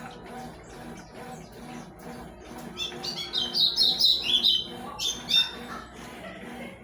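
Consul 12 kg washing machine running its wash cycle, with a low sound repeating about twice a second. A bird chirps rapidly and loudly over it for a couple of seconds in the middle.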